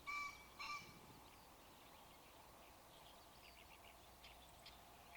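A bird gives two short, loud calls about half a second apart right at the start, each on one steady pitch, followed by faint small-bird chirps.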